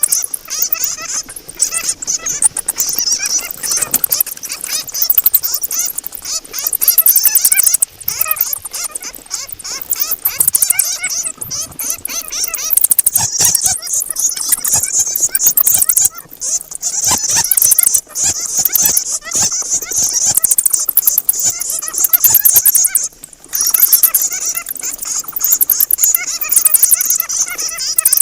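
Bats chattering: a dense, almost unbroken stream of rapid high-pitched squeaks and clicks, dropping away briefly twice.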